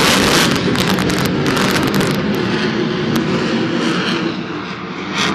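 Sukhoi Su-35 fighter's twin jet engines running very loud in a low display pass, a dense roar with sharp crackles. It eases briefly near the end, then comes back up.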